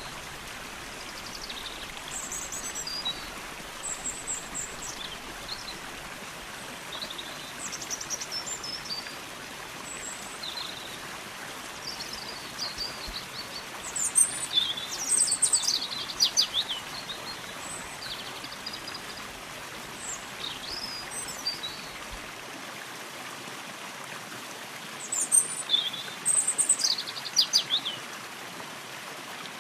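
Steady rush of flowing stream water, with a songbird whistling short high phrases over it at intervals, busiest about halfway through and again near the end.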